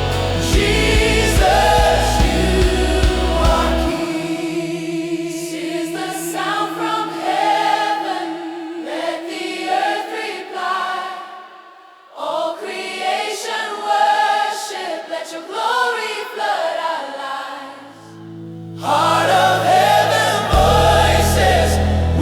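Choir singing a gospel-style worship song with a backing band. About four seconds in the bass and drums drop away, leaving voices over a held note, and the full band comes back in near the end.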